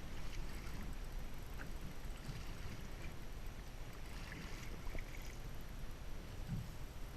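Steady low rumble of a small fishing boat at sea, with wind and water noise and a few faint brief splashy noises.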